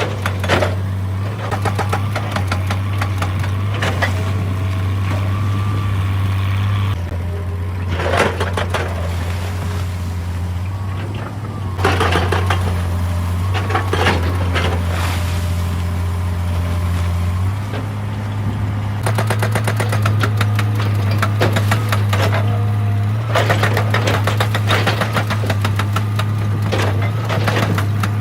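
Hitachi EX200 hydraulic excavator's diesel engine running steadily under load, with bursts of clattering and scraping as the bucket works against rock.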